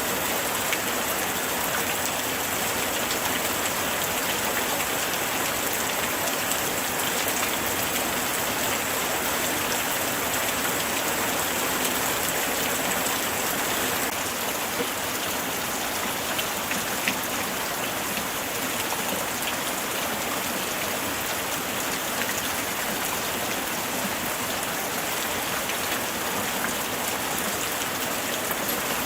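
Steady light rain falling, a continuous hiss of drops with faint scattered ticks of individual drops landing.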